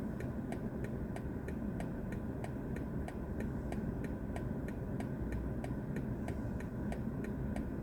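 Car turn-signal indicator ticking steadily, about three ticks a second, inside the cabin of a BMW i4 M50, over a low cabin hum.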